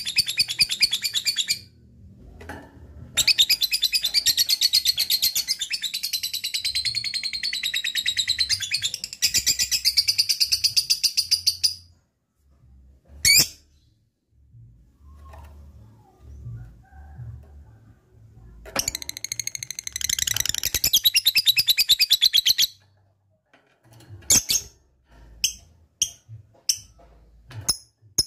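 Lovebird's ngekek song: long, very fast chattering trills of high, sharp notes, in bouts lasting several seconds with pauses between them. Toward the end it gives only scattered single chirps.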